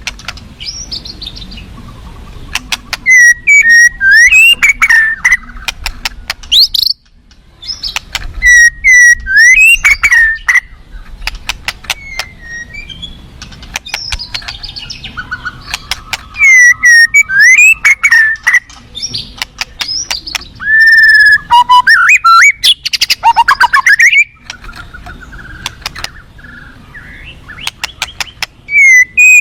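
White-rumped shama singing in loud bursts of varied whistled phrases, mixed with rapid clicking and chattering notes, about five song bouts separated by short pauses. A faint steady rush of river water runs underneath.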